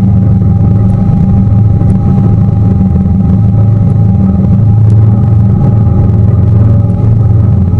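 Tour boat's engine running steadily at cruising speed: a loud, unchanging low drone with a faint steady whine above it.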